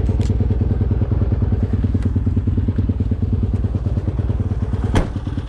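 Yamaha YZ250F dirt bike's single-cylinder four-stroke engine idling steadily at a constant pitch, with a sharp click about five seconds in.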